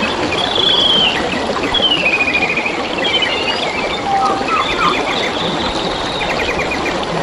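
Forest birds singing in a string of short whistled phrases and trills, with a few lower notes midway, over the steady rush of flowing stream water.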